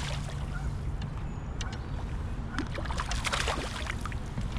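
Sounds from a fishing kayak on the water over a steady low rumble: a few small knocks, and a burst of splashing and clicking a little past halfway.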